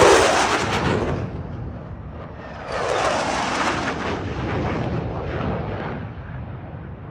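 Aircraft roaring past low overhead: a loud pass that dies away within the first second, then a second roar that swells at about three seconds and fades out slowly.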